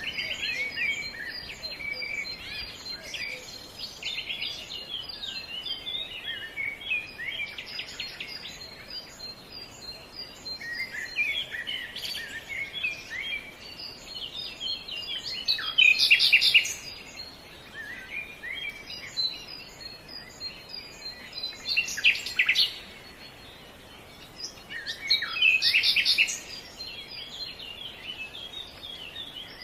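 Small birds chirping and twittering in rapid, high notes without pause, with three louder bursts of chirping: about halfway through, about two-thirds of the way, and near the end.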